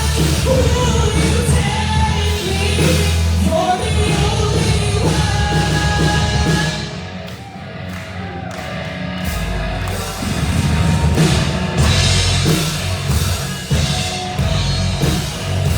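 Rock band music with a singing voice over drums and bass guitar. The band thins out about seven seconds in, then the full band with drums comes back in two or three seconds later.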